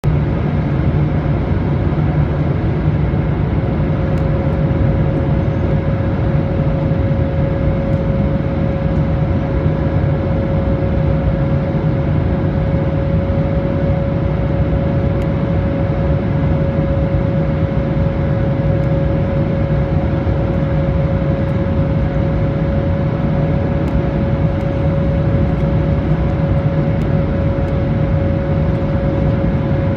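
Steady cabin noise of an Airbus A220-300 in flight: airflow and its Pratt & Whitney PW1500G geared turbofan engines. A steady whine joins about four seconds in and holds.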